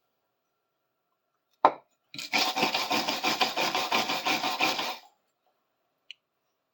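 A knock as a small metal part is set down, then about three seconds of rapid back-and-forth strokes of sandpaper scrubbing rust and grime off it by hand, ending with a faint click.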